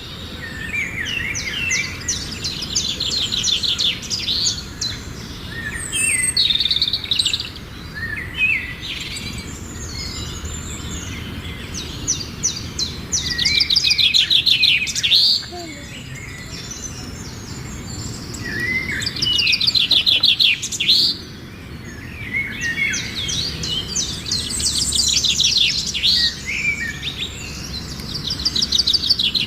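Birds singing and chirping: repeated high phrases of fast trilled notes, each lasting a few seconds, over a steady low background noise.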